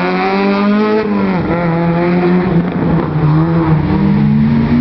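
Opel Corsa hatchback race car's engine revving hard as it drives through a cone slalom. Its pitch drops about a second in, holds lower, then climbs again as it accelerates away.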